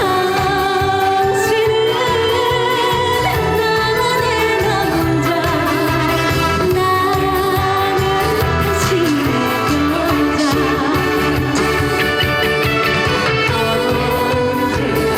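A trot song performed live: a woman singing long, bending melodic lines over a backing track with a steady beat.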